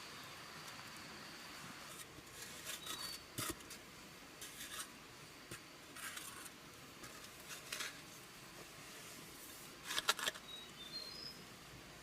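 Scattered clicks and rustles of handling over a soft steady hiss, loudest in a quick cluster about ten seconds in, followed by a few short high bird chirps.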